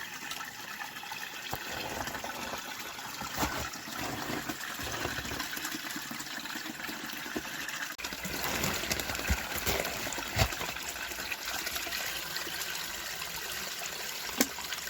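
Water from a small spring trickling and splashing steadily, with a few short knocks.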